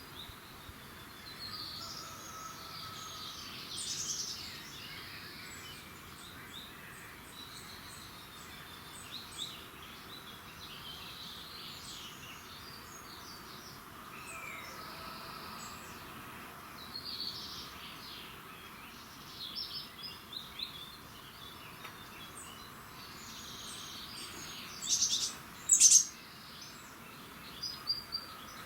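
A dawn chorus of several songbirds chirping and trilling, with a few loud, sharp calls near the end over a faint steady background hiss.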